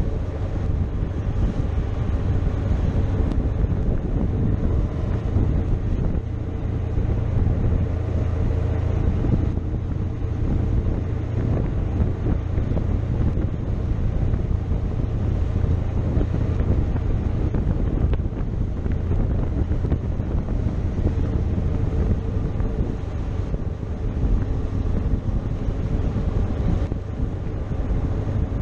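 Motorcycle riding at a steady pace, its engine running under a constant rush of wind on the microphone.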